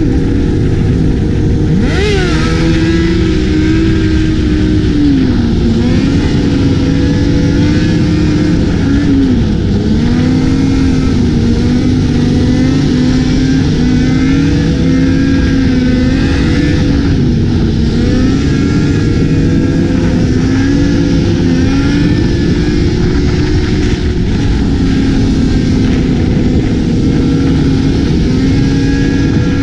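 Motorcycle engine running loud and steady as the bike is ridden. Its note rises about two seconds in, then wavers up and down with the throttle.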